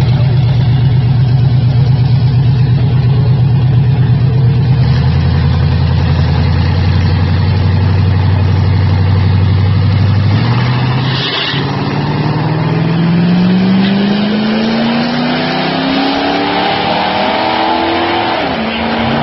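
V8 car engines running loud and steady, the note dropping lower about five seconds in, then from about ten seconds in one accelerates hard, its pitch climbing steadily for several seconds before dropping suddenly near the end at a gear change.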